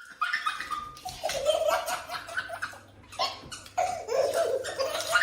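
A person laughing hard in breathy, broken bursts.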